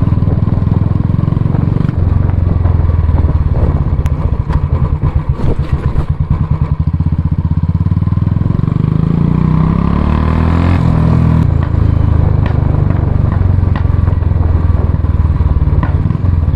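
Royal Enfield Classic 350's single-cylinder engine thumping through its exhaust while riding. It revs up gradually to a peak about ten seconds in, then drops back abruptly and runs on steadily.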